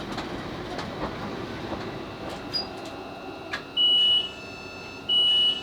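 Class 458 electric train's running noise with a few clicks as it draws into the station. From about four seconds in, a high electronic beep sounds twice, each about half a second, a little over a second apart: the train's door warning tone as it stops at the platform.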